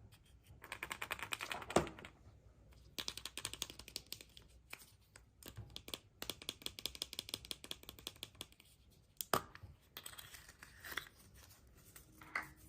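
Surprise-egg packaging being handled and unwrapped: runs of rapid, crisp crackling and clicking from crinkled wrappers and plastic, with a few separate sharper clicks near the end.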